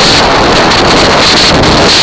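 Loud, steady wind buffeting on the microphone of a camera riding on a moving ATV, a rough roar that covers everything else.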